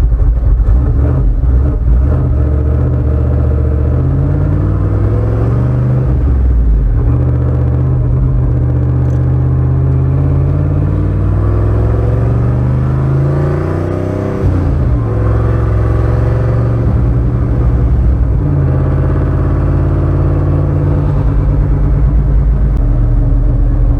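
A vehicle engine accelerating hard, its pitch climbing and then dropping back at each gear change several times. It lets off briefly about fourteen seconds in, then pulls again.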